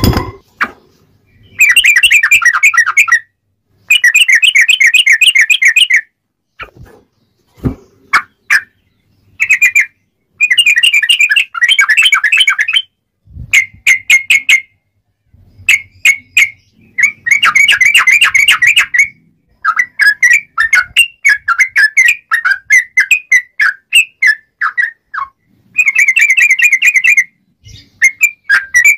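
Yellow-vented bulbul (trucuk) singing loud, rapid rolling phrases of clear whistled notes, each about one to two seconds long with short pauses between. A couple of low thumps come about seven and eight seconds in.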